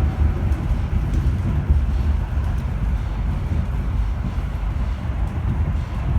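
Suburban electric train running along the track: a steady low rumble with faint clicks.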